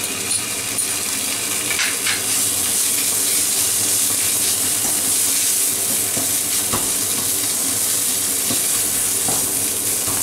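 Onion, garlic and fresh ginger pastes sizzling in hot oil in a nonstick frying pan, stirred with a wooden spatula that scrapes and taps the pan now and then. The sizzle builds over the first few seconds as the newly added ginger paste starts to fry.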